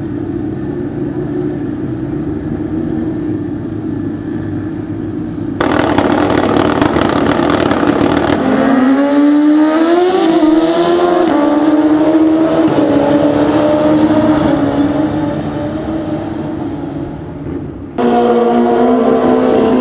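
Pro Street drag-racing motorcycle engines at high revs. After a sudden jump in loudness about five seconds in, a bike launches, its pitch climbing in steps through its gear shifts before fading away. Near the end another loud engine abruptly takes over.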